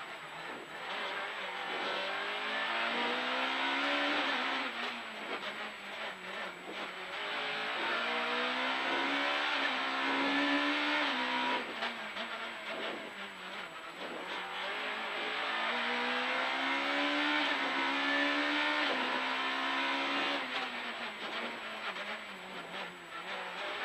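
Rally car engine heard from inside the cabin, accelerating hard through the gears: the engine note climbs, drops back at each gear change and climbs again, several times over.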